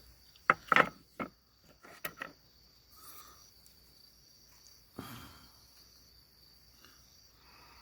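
Crickets chirping steadily in a high, even band. Several sharp clicks and knocks sound in the first two seconds or so, and a brief noisy rustle about five seconds in.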